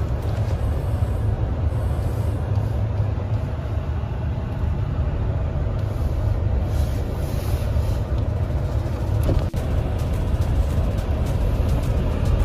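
Car on the move: a steady low road rumble.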